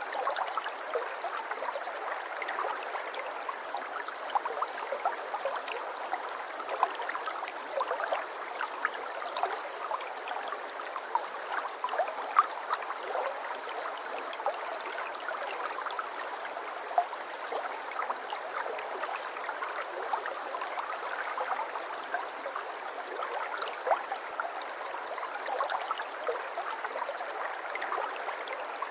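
Shallow brook babbling over stones: a steady wash of running water, dotted with many small splashes and gurgles.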